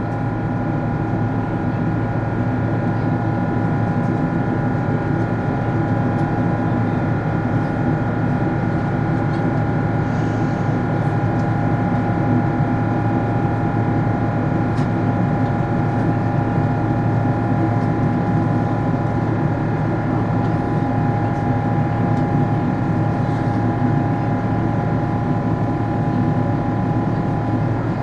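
Boeing 777's GE90 high-bypass turbofan engine running steadily at climb power after takeoff. It makes an even, loud rush with several steady humming and whining tones held throughout.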